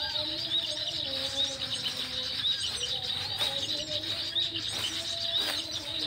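Small birds chirping: rapid, high-pitched calls repeating several times a second, over lower wavering whistled tones.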